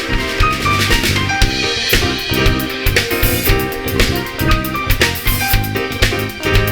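A band playing, the drum kit keeping a steady beat of kick and snare under sustained bass and chordal instrument notes.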